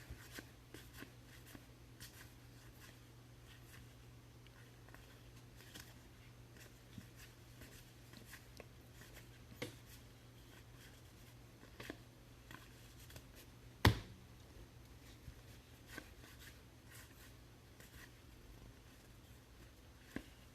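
Faint handling of trading cards and their packs on a table: small scattered clicks and taps, with one sharper knock about 14 seconds in, over a steady low hum.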